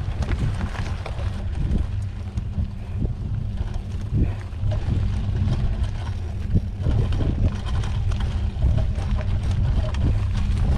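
Wind rumbling on the microphone during a mountain bike ride on a dirt trail, with scattered short knocks and rattles from bumps.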